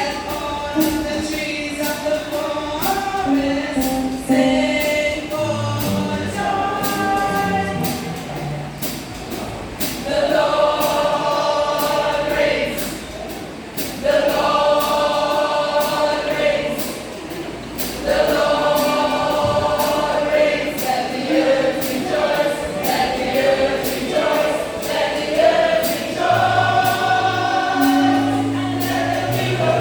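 Choir singing a gospel song in harmony, with instrumental accompaniment: a moving bass line and a steady beat.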